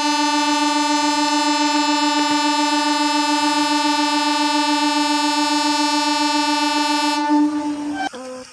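A loud, steady horn-like tone held for about eight seconds, then cut off near the end and followed by a few short gliding notes.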